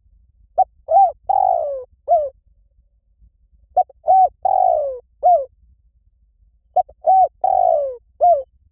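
Spotted dove cooing: three phrases about three seconds apart, each of four notes, with a short first note, a rounded second, a long third note that falls in pitch, and a short closing note.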